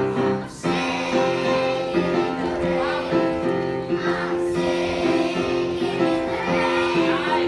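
A group of young children singing a song together over an instrumental accompaniment.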